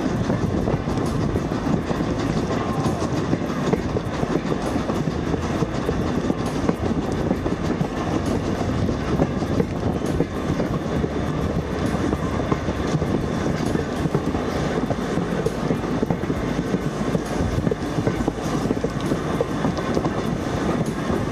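Steam-hauled passenger train running steadily along the line, heard from a carriage window: a continuous rumble and clatter of the carriage wheels on the track.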